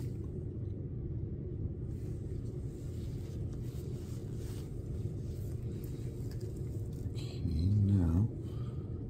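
A steady low background rumble with faint light handling noises, and a short voiced sound, like a brief hum or murmur, near the end.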